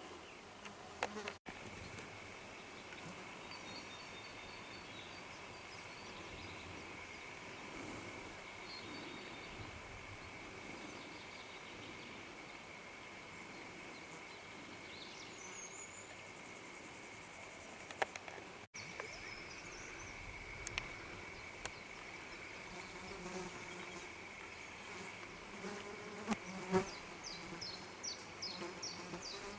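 Steady high insect drone that holds one pitch throughout, with a few short high chirps here and there, more of them near the end.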